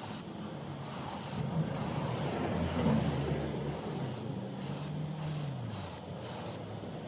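Aerosol can of clear lacquer spraying in a rapid series of short bursts, about a dozen hisses that start and stop in quick succession, as a coat of lacquer is laid over a car body repair.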